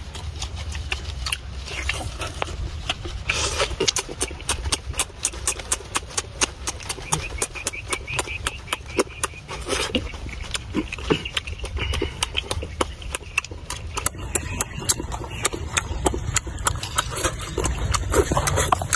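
Close-up eating sounds of a man chewing grilled pork belly and lettuce: rapid wet mouth clicks and lip-smacks, several a second, over a low steady rumble.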